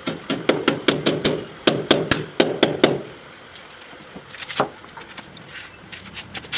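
A hammer striking quickly, about five blows a second for some three seconds, as a pipe clamp is fixed to the wall to hold a CPVC water pipe. Then the blows stop and one more knock follows.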